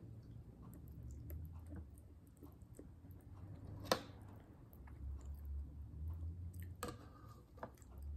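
A person chewing a mouthful of rice and meat, with soft wet clicks and smacks, close to the microphone. A sharp clink about halfway through as a metal spoon touches the soup bowl, and another click near the end.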